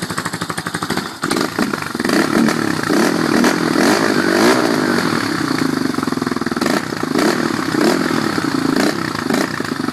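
A Yamaha Warrior 350 ATV's single-cylinder four-stroke, freshly rebuilt to 366cc, runs through a Powerbomb header and Pro Circuit exhaust on its first run after the rebuild. It idles, then from about a second in is revved in repeated throttle blips.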